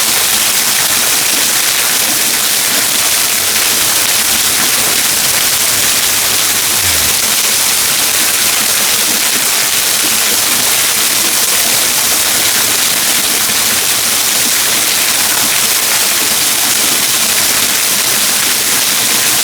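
Waterfall rushing steadily, a loud even wash of falling water.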